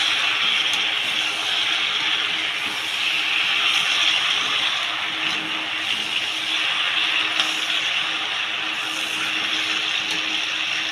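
Ash gourd pieces frying in mustard oil in a pan: a steady, even sizzle, with a faint steady hum underneath.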